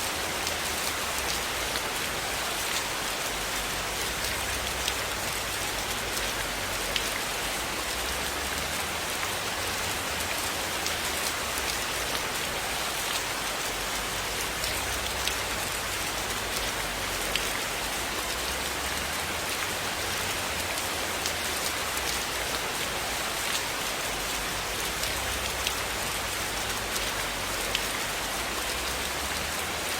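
Steady rain falling on a surface, an even hiss with scattered sharp ticks of individual drops or crackles.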